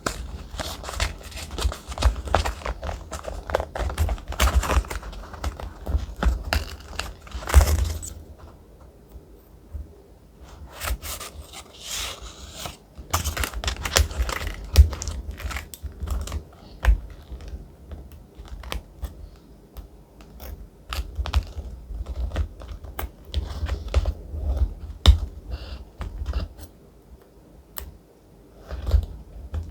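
Thick, textured paper being handled for a collage journal: rustling, crinkling and small clicks with soft knocks underneath. Busy and continuous for about the first eight seconds, then sparser, separate rustles and clicks.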